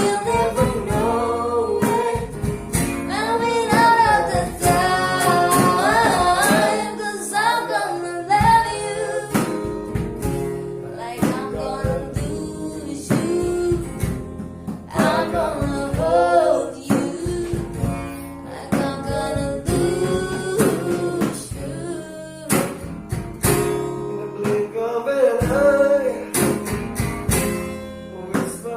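A woman singing to acoustic guitar, the guitar strummed in a steady rhythm under the melody.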